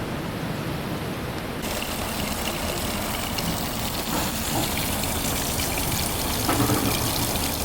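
Water running and trickling steadily, with a brighter, splashier sound from about a second and a half in.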